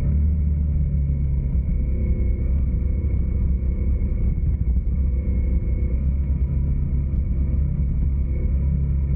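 Steady low rumble of a vehicle under way: engine drone and road noise at an even speed, with faint steady engine tones.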